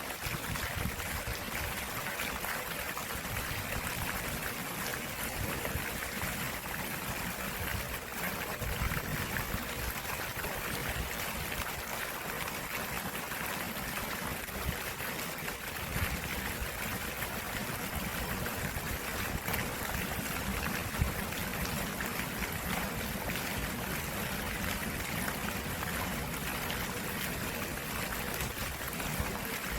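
Stream water flowing and trickling steadily, an even, continuous rush with no breaks.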